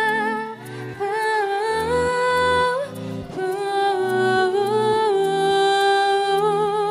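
A female pop singer's long wordless vocal ad-libs, held notes with vibrato and slow slides between pitches, sung over a backing track with a bass line: the outro of a slow R&B song.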